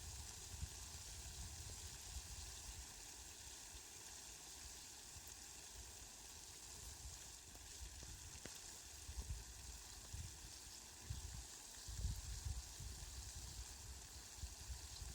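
Steady faint hiss of rain, with a few short low rumbles in the second half.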